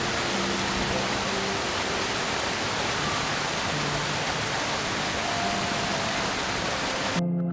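Steady, even rushing noise with soft ambient music underneath; it cuts off suddenly near the end, leaving the music.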